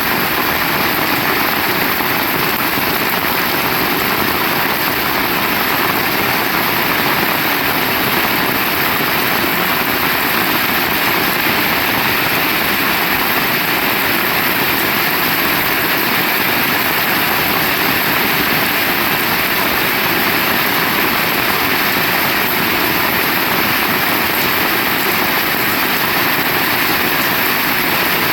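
Heavy rain falling, a steady, dense hiss with no breaks.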